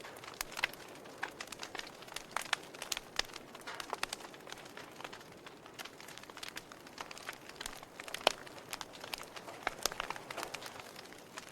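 Wood fire crackling, with irregular sharp pops and snaps over a soft hiss of burning; one louder pop about eight seconds in.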